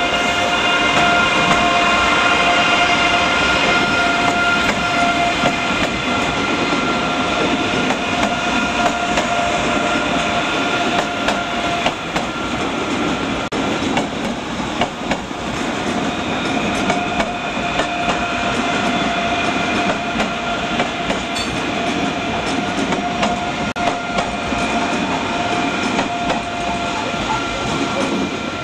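ICE 3 high-speed electric train (DB Class 406) passing slowly close by as it pulls out of the station. A steady electric whine from its traction equipment sits over the rumble of the wheels, with scattered clacks at rail joints and points.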